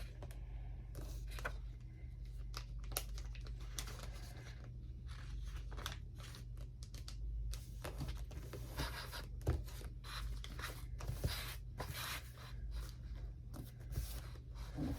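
Magazine paper rustling and a glue stick rubbed across it in many short scraping strokes, growing busier about halfway through, over a steady low hum.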